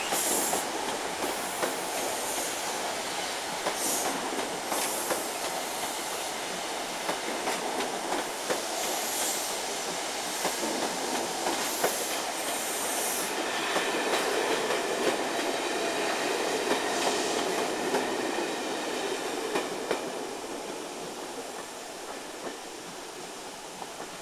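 Caledonian Sleeper passenger coaches rolling past, their wheels clicking in a steady rhythm over rail joints, with a faint high wheel whine for a few seconds midway. The sound dies away near the end as the last coach goes by.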